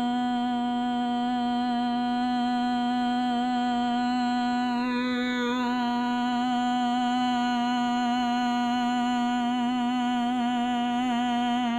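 A person humming one long, steady note on a single pitch: the drawn-out exhale of Bhramari pranayama, the buzzing 'bee breath'. The tone wavers slightly near the end.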